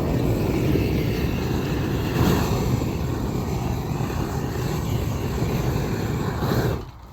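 Gas torch burning with a steady rushing roar, of the kind used to heat and melt a bitumen (Isogam) waterproofing membrane onto a roof; it cuts off abruptly near the end.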